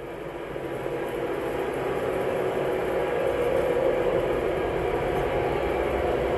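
Lionel model train running on its track, a steady rumble of wheels and motor that grows louder over the first couple of seconds, then holds.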